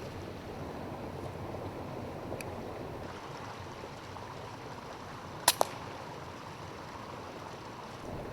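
Air rifle shot: two sharp cracks in quick succession about halfway through, over a steady hiss of wind on the microphone.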